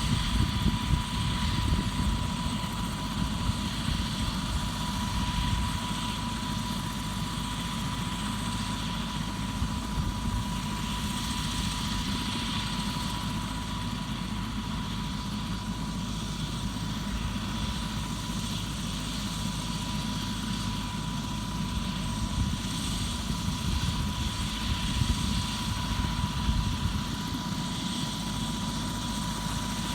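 Crop-spraying helicopter running steadily, its rotor and engine noise continuous with a thin, steady whine over it.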